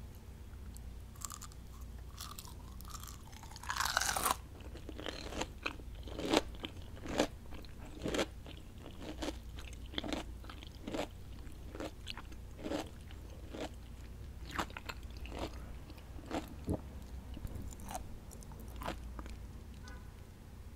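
Close-miked eating of crispy fried onion rings: a loud crunching bite about four seconds in, then steady chewing with sharp crunches about two a second, thinning out near the end.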